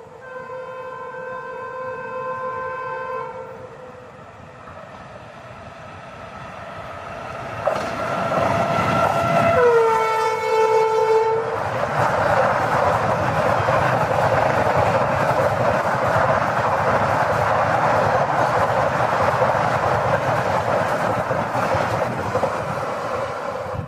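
Locomotive horn sounding a steady blast as an express train approaches. About eight seconds in, the train arrives with a loud rush and gives a second horn blast that drops in pitch as the locomotive passes. Then the passenger coaches run through at speed, wheels clattering over the rail joints, and the noise falls away just before the end.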